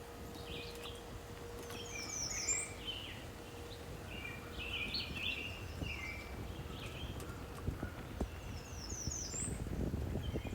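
Songbirds singing: scattered short chirps throughout, and one bird twice repeats the same quick run of descending high notes, about seven seconds apart. A low rumble builds near the end.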